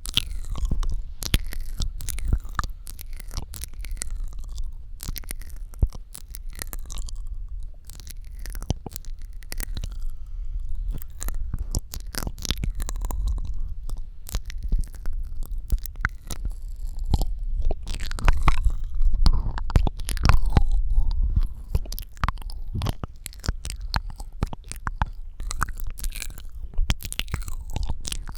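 Close-miked ASMR mouth sounds: dense, irregular wet clicks, smacks and tongue pops, over a steady low rumble.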